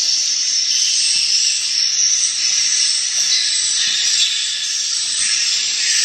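Dense, steady high-pitched twittering of swiftlet calls filling the bird house, a continuous high hiss-like chatter with no pauses.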